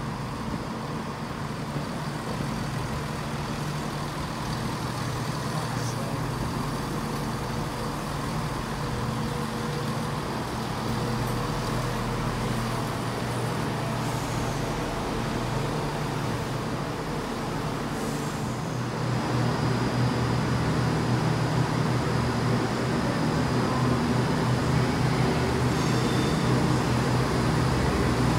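Diesel train engine running steadily, growing slowly louder, with a step up in level about two-thirds of the way through.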